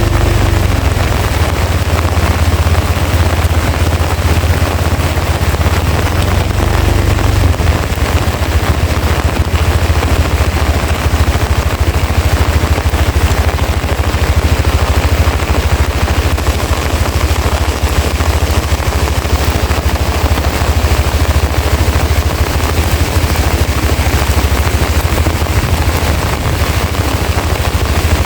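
Heavy rain pouring down in a dense, steady patter of drops, with a deep rumble of strong wind buffeting the microphone underneath.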